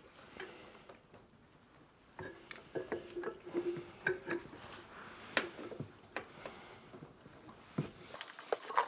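Scattered light clicks and taps of small parts being handled and fitted back onto a lawnmower engine, starting about two seconds in.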